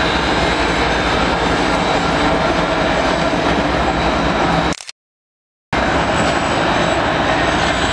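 A Union Pacific train rolling by close at hand: Big Boy 4014's water tender cars followed by a diesel locomotive, a loud, steady noise of steel wheels on rail. The sound cuts out completely for about a second just past the middle.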